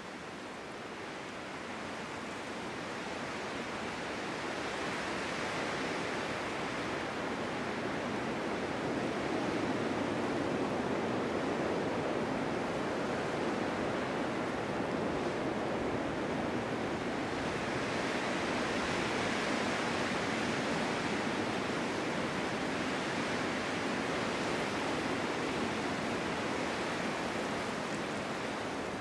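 Snowstorm wind blowing steadily, swelling and easing in long gusts. It fades up over the first several seconds.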